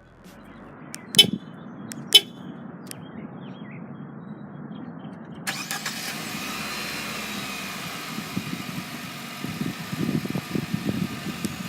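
Car sounds: two sharp clicks about one and two seconds in over a low steady hum. About five and a half seconds in, a steady hiss suddenly joins it and carries on.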